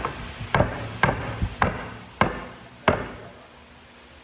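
Five sharp strikes in a steady rhythm about 0.6 s apart, like blows of a hammer or mallet in woodworking, stopping about a second before the end.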